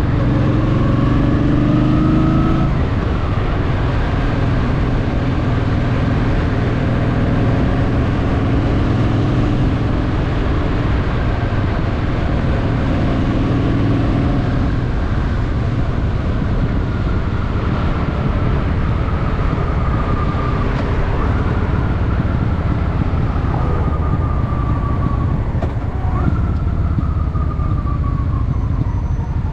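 Honda Shadow VT750's V-twin engine running under way, its note rising and falling with the throttle as the bike rides.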